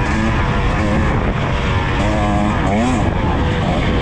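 KTM EXC 300 TBI two-stroke enduro engine under riding. It holds a steady pitch, then revs sharply up and back down about three seconds in.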